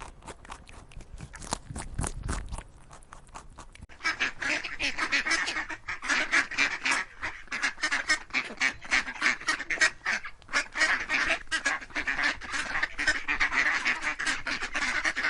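A flock of ducks quacking, many rapid overlapping calls. The quacking is fainter at first and grows much louder about four seconds in.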